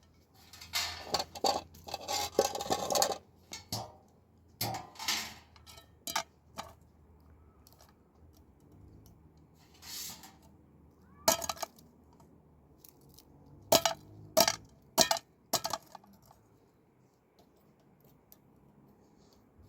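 Kitchen utensils and dishes being handled: irregular clattering and scraping for the first few seconds, then a few scattered sharp clicks and knocks.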